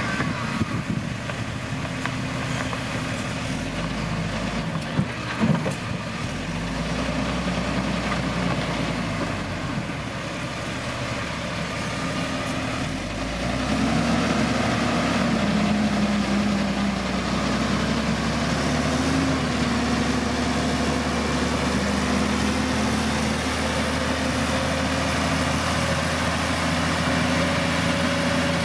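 Heavy diesel engine of road-construction machinery running steadily, with a couple of short knocks early on. About halfway through it becomes louder and holds there, as if under more load or closer.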